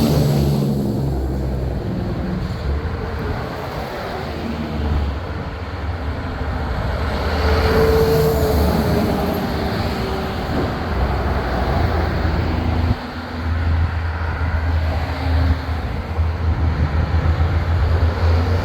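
Diesel big-rig trucks driving past in a convoy, their engines rumbling low. The rumble dips a few seconds in, then builds up again.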